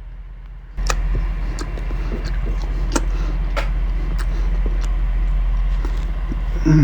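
Close-up crunching and chewing of a toasted, grilled peanut butter and jelly sandwich: irregular sharp crunches over a steady low hum that steps up about a second in.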